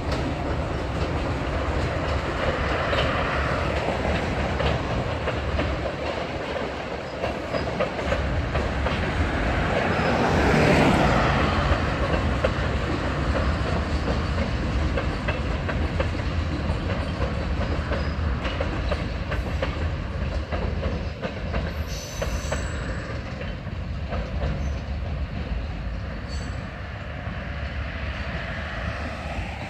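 Freight train led by an Alco RS11 diesel locomotive crossing a steel girder bridge: a steady low rumble with the clickety-clack of tank-car wheels over the rail joints, loudest about a third of the way in.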